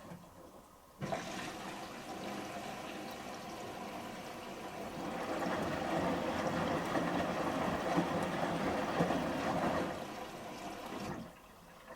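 Samsung Series 5+ washing machine in its final rinse: water swishing in the drum with the load for about ten seconds, then stopping suddenly.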